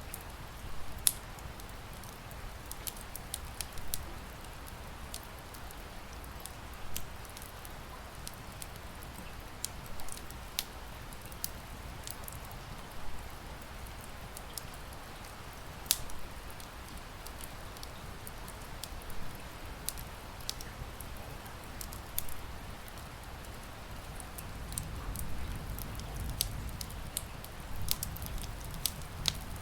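Wood fire crackling, with sharp pops at irregular moments over a steady hiss of rain. A low rumble swells near the end.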